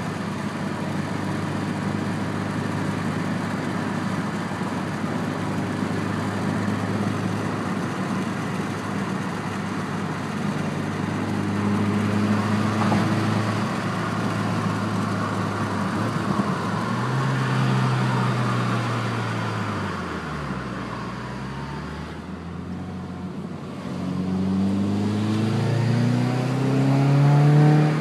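2006 Subaru Impreza's flat-four engine heard through its aftermarket TurboXS exhaust, running at a steady pitch, then falling and dipping before rising again as the engine speeds up near the end.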